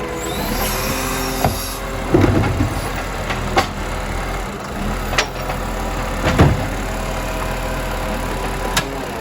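Iveco Stralis garbage truck's engine running steadily, with several sharp knocks and bangs over it, the loudest about two seconds in and again about six and a half seconds in.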